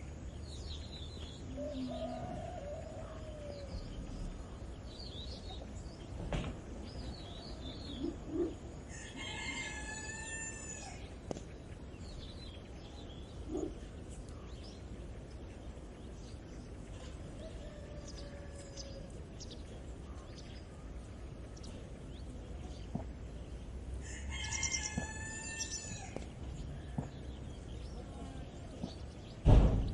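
Roosters crowing twice, with small birds chirping in between over a low steady rumble. A single sharp knock just before the end is the loudest sound.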